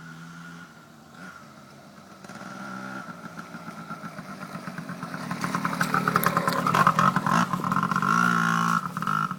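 Yamaha PW80 79cc two-stroke single-cylinder dirt bike engine running under throttle as the bike comes closer. It grows steadily louder, is loudest about seven seconds in, and revs up briefly near the end.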